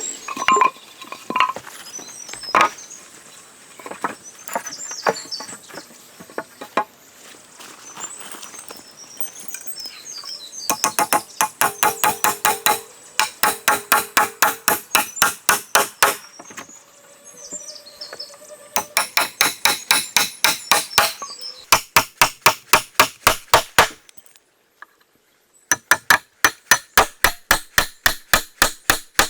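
Birds chirping over a few scattered knocks, then, about ten seconds in, runs of rapid, evenly spaced hammer blows, about six a second, with a slight metallic ring. The runs are broken by short pauses.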